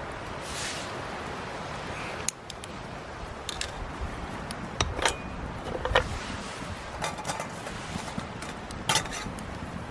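Light metallic clinks and clicks from cookware being handled over a wood fire, several spread out and separated by pauses, over a steady hiss.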